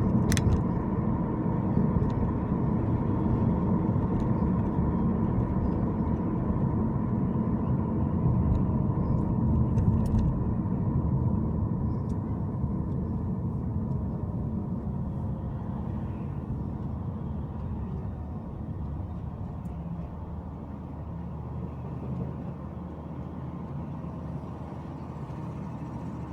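A car driving, with steady low engine and road rumble that grows gradually quieter over the second half. A sharp click sounds about a quarter second in.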